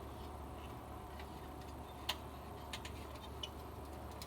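A few light clicks, the loudest about two seconds in and two or three fainter ones over the next second and a half, over a low steady hum.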